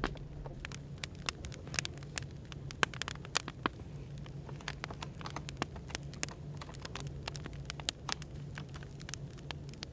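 Wood fire crackling, with irregular sharp pops and snaps, over a steady low hum of background noise.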